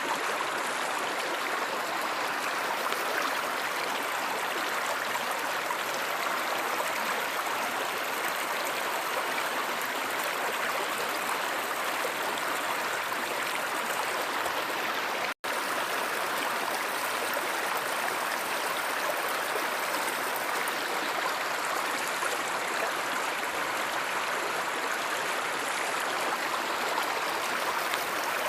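Steady rushing and babbling of a flowing stream, with an instant where the sound cuts out completely about halfway through.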